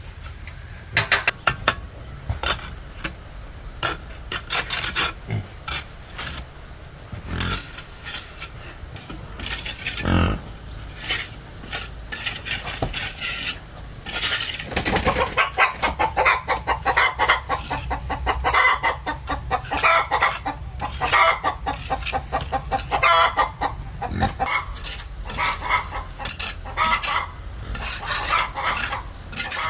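Chickens clucking, with the calls growing busier from about halfway through, over scattered sharp knocks and clicks and a steady high-pitched tone.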